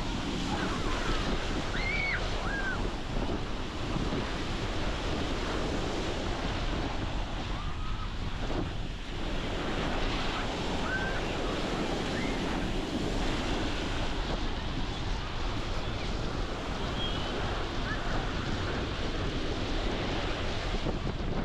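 Ocean surf breaking steadily on the beach, with strong wind buffeting the microphone. A few brief, faint high calls rise above the noise now and then.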